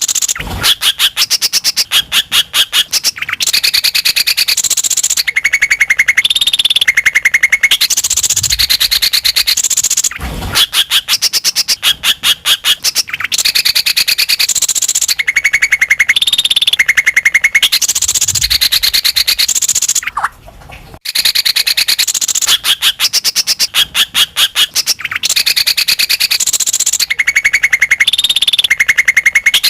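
Greater green leafbird (cucak ijo) singing without pause: rapid chattering trills and repeated whistled phrases, the same sequence coming round about every ten seconds as a looped lure recording. The song breaks off briefly about twenty seconds in.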